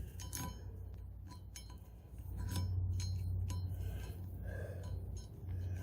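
Light metallic clinks and clicks from metal parts being handled, over a steady low rumble that grows louder about two seconds in.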